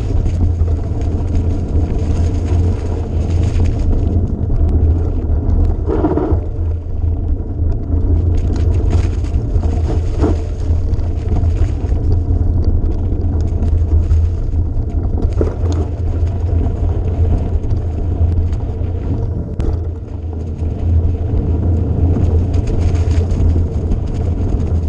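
A motor vehicle's engine running steadily with a loud low drone, with scattered short knocks and rattles over it.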